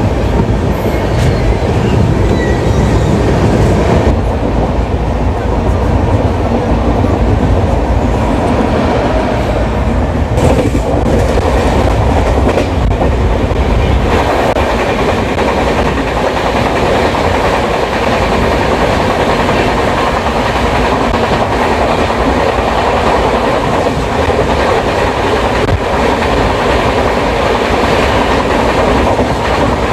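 Passenger train running along the track: the steady rumble and clatter of coach wheels over rail joints, heard from on board. About halfway through the deep rumble eases and the noise becomes thinner and brighter.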